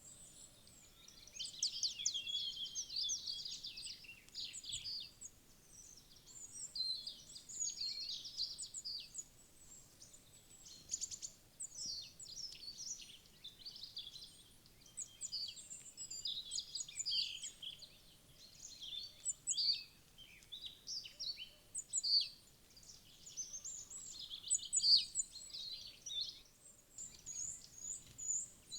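Wild songbirds chirping and calling, many short high-pitched calls overlapping continuously, a woodland dawn-chorus-like mix.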